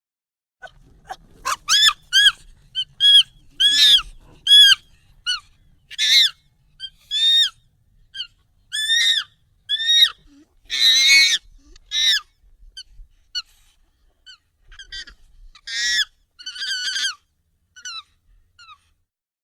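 Monkey calls, sped up and pitched up: a string of short, high calls, each rising and then falling in pitch, with a longer, harsher screech about eleven seconds in.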